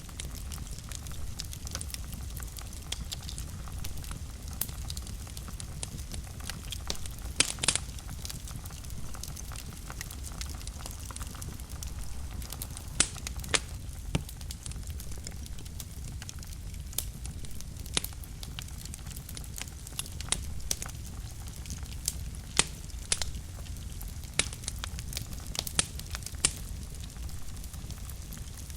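Wood fire burning in a fireplace, a steady low rumble with irregular sharp crackles and pops from the burning logs, a few standing out loudly.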